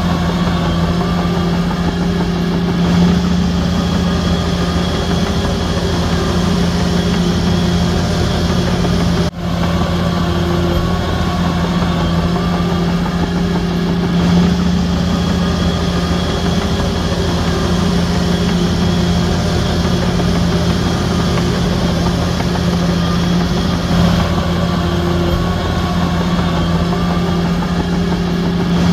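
Heavy earthmoving machinery's diesel engine running steadily at a constant pitch, with no words over it; the sound cuts out for an instant about nine seconds in.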